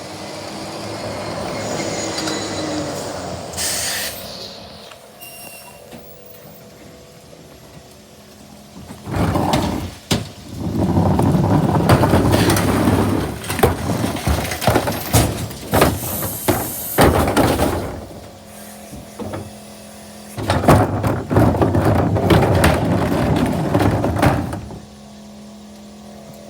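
Garbage truck pulling up, with a short air-brake hiss about four seconds in, then two loud spells of banging and clattering as a bin is lifted and emptied into the hopper, followed by a steady engine hum.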